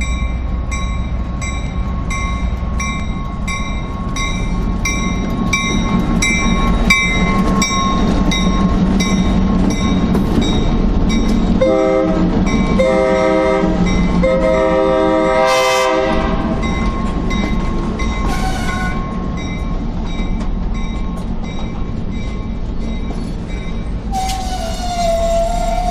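Freight train with diesel locomotives passing a level crossing: the crossing's warning bell rings in regular strokes over the locomotives' low engine rumble for the first several seconds. About twelve seconds in, a locomotive horn sounds in a few blasts, the last the longest, and near the end, as the boxcars roll by, a wheel squeal sets in.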